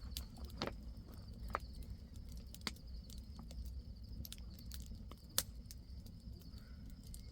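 Night insects chirring steadily and high-pitched, over a low rumble, with scattered sharp clicks, one louder about five seconds in.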